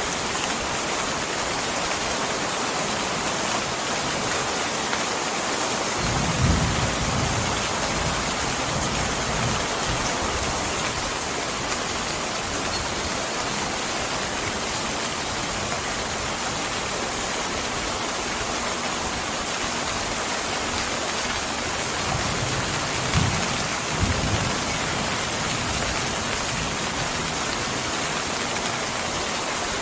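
Steady heavy rain with two low rolls of thunder, one about six seconds in and another a little past twenty seconds.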